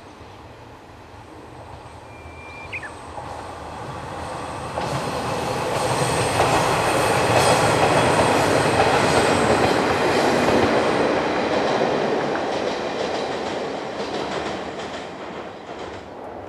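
A diesel railcar train passes on the Kisei Main Line. The rumble of its wheels and engine builds steadily, peaks in the middle with the wheels clicking over the rail joints, then fades away.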